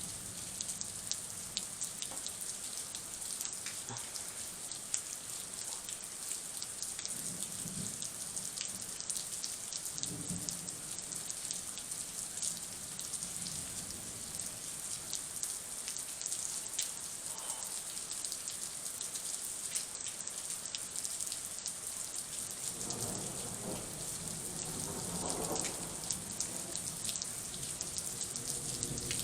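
Heavy rain falling during a thunderstorm, a steady hiss with many drops ticking sharply on hard surfaces. A low rumble rises for a few seconds near the end.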